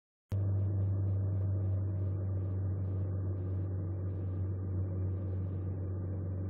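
An engine running steadily with a deep, even hum. It cuts in abruptly about a third of a second in and stops abruptly near the end.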